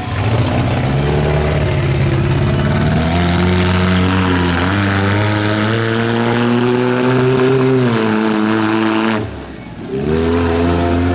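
Monster truck engine revving hard, its pitch climbing and holding high, with a short throttle lift about nine seconds in before it revs up again.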